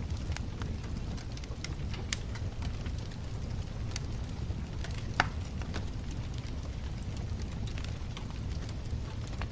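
Wood bonfire burning: a steady low rumble of flame with scattered crackles and pops, the sharpest pop about five seconds in.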